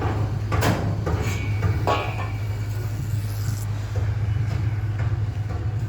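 A motor engine running steadily with a low hum. A few sharp metallic knocks come in the first two seconds, one followed by a short ringing tone.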